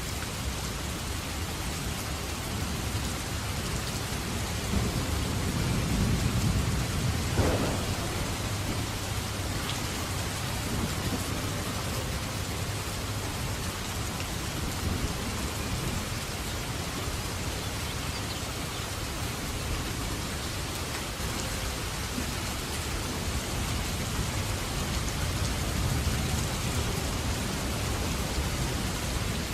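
Steady rain falling, with a low rumble of thunder that swells about five to eight seconds in and a softer rumble near the end.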